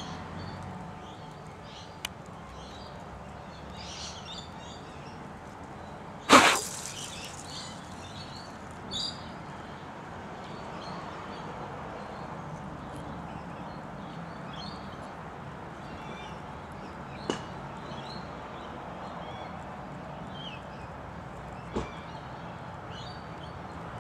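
Outdoor background with faint bird chirps scattered throughout. A short loud noise stands out about six seconds in, and a few light clicks come later.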